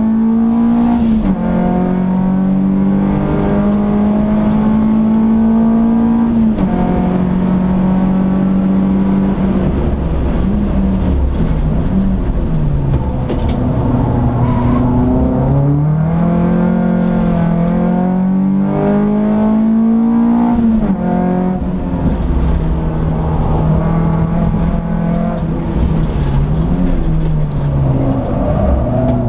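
Peugeot 206 S16's 2.0-litre 16-valve four-cylinder engine, heard from inside the cabin while lapping a circuit. Its pitch drops sharply at two upshifts early on, falls and wavers as the car slows for corners, then climbs again as it accelerates out.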